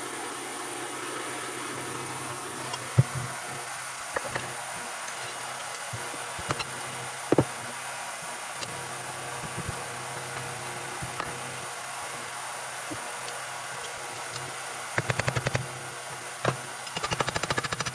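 Steady hum of a fan under occasional sharp metallic clinks and knocks of tools and parts being handled. Near the end come two short bursts of rapid, evenly spaced clicking, about a second each.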